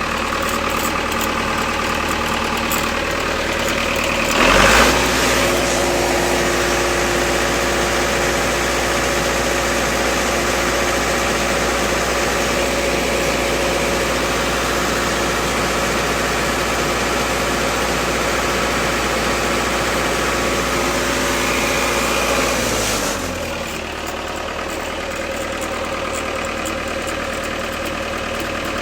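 Lincoln SAM 400 welder's engine idling, then speeding up with a brief surge about four seconds in. It holds a steady higher speed for about eighteen seconds, then winds back down to idle, as the engine is run up for a charging-system test.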